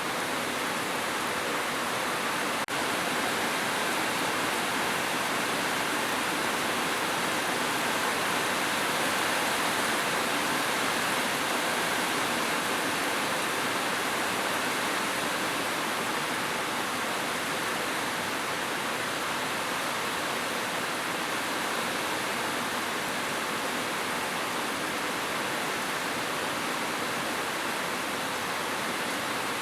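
Heavy rain falling steadily on a roof, an even, continuous downpour, with one very brief dropout about three seconds in.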